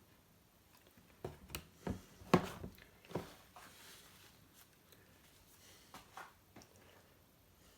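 A run of light knocks and clicks of small objects being handled, the loudest about two and a half seconds in, followed by a few fainter ones, with quiet room tone between.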